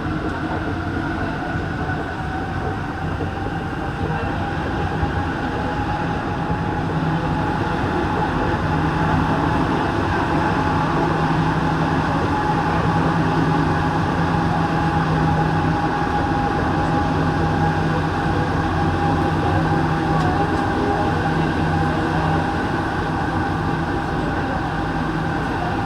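Interior of a Santiago Metro NS-16 train running between stations: steady rolling noise with a steady hum and a whine, getting a little louder about a third of the way in.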